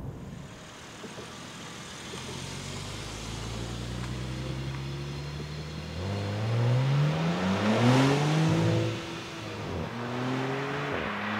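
Alpina B4 Gran Coupé's twin-turbo straight-six accelerating hard away from the listener, its note rising through the gears with a quick upshift, then fading as the car pulls into the distance.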